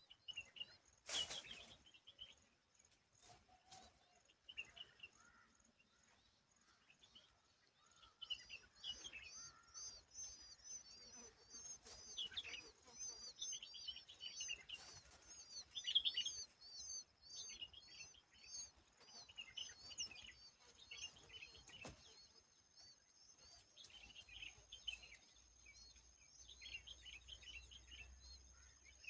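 Small birds chirping faintly in rapid runs of short, high, arched notes, busiest through the middle. A single sharp click comes about a second in.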